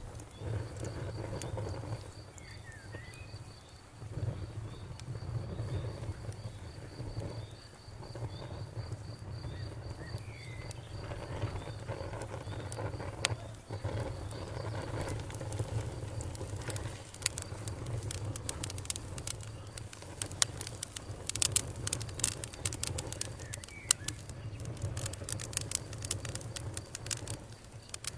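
Campfire crackling, with sharp pops coming thick and fast in the second half over a low steady rumble. A high-pitched insect trills in rapid pulses through the first half, and a few short bird chirps break in now and then.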